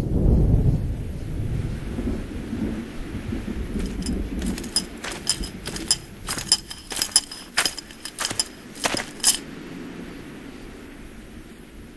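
A low rumble at the start that dies away over a few seconds, followed by a string of light metallic clinks and jingles, like keys or small metal objects, which stops a couple of seconds before the end.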